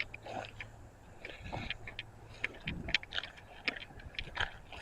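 Footsteps crunching through brush and debris: faint, irregular light clicks and snaps, one or two a second.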